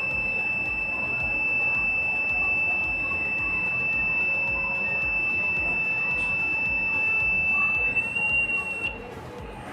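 Rain alarm circuit's piezo buzzer sounding one steady high-pitched tone. The tone rises slightly in pitch about eight seconds in, then cuts off about a second later.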